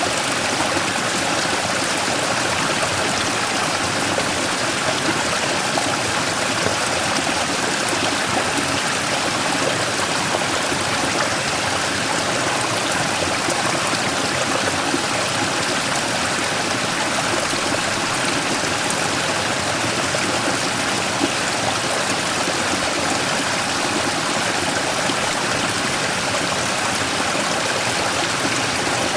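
Mountain stream rushing steadily over and around a large rock, a constant splashing wash of water with no change.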